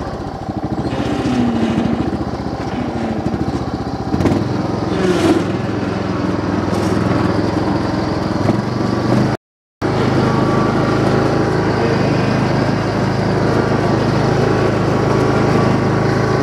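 Kohler Courage engine of a riding lawn tractor running steadily at working throttle while the tractor is driven, with a few small shifts in engine note in the first seconds. The sound cuts out completely for about half a second near the middle.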